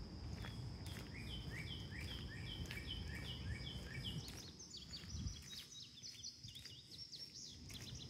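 Songbirds singing in woodland: a run of repeated two-note chirps, about three a second, for roughly four seconds, then a quicker series of higher chirps. Underneath are a steady high insect drone and a low rumble from walking that fades about halfway through.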